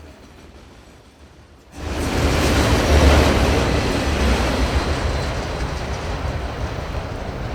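Faint background, then about two seconds in the loud rumble and rail noise of a passing train cut in abruptly and run on, easing slightly toward the end.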